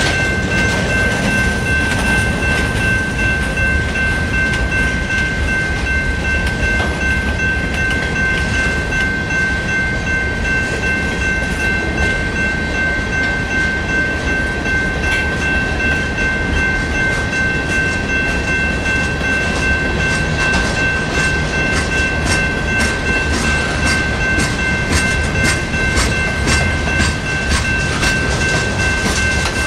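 A train rolling past, with a steady high-pitched tone held throughout. Regular clicks of wheels over rail joints come thicker and faster in the second half.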